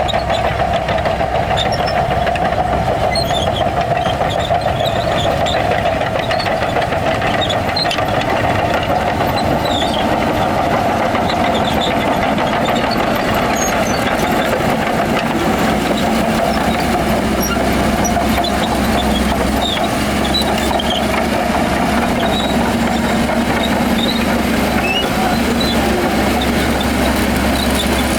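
Heavy diesel earthmoving machinery running steadily under load, a continuous engine drone with a strong mid-pitched hum that eases off about halfway through.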